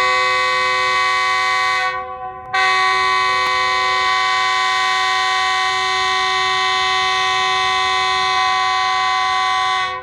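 Train horn sounding loudly in two blasts: a short one ending about two seconds in, then after a brief break a long, steady blast of about seven and a half seconds that stops right at the end.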